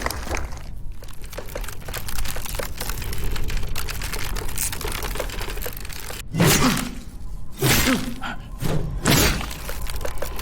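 A string of sharp knocks and cracks, with several louder crashing, breaking bursts in the second half.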